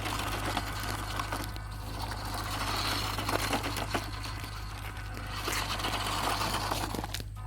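WPL D12 RC pickup truck's small electric motor and gearbox whirring as it drives, with scattered clicks and crunches from the wheels on rough ground.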